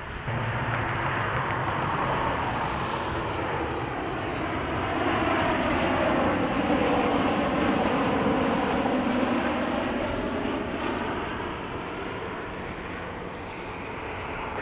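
Arriving Boeing 737 MAX 8 jet with CFM LEAP-1B turbofan engines passing. It grows louder to a peak in the middle and then eases off, with an engine tone that dips in pitch and climbs again as it goes by.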